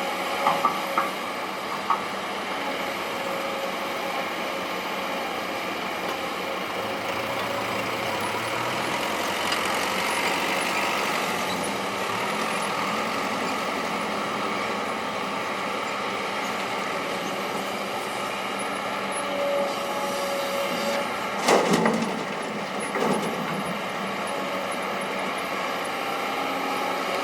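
Heavy earthmoving machinery running steadily, with a few sharp clanks near the end.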